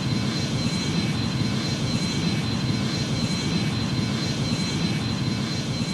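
Boeing 737 jet engines running steadily: an even roar with a thin high whine over it.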